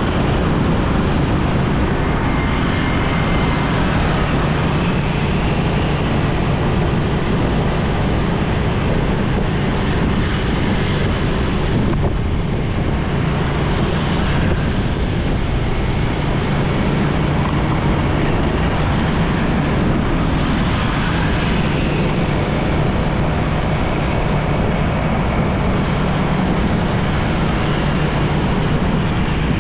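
Motorcycle riding at a steady pace in road traffic: a continuous engine drone under wind noise on the microphone, with no distinct horns or other single events standing out.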